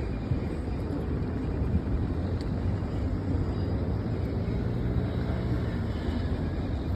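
Steady low rumble, with a faint engine-like hum through the middle.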